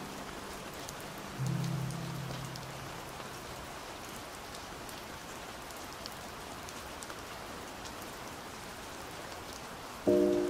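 Steady rain falling, with muffled, slowed-down music over it: a single low note about a second and a half in that fades away, then a louder chord struck near the end.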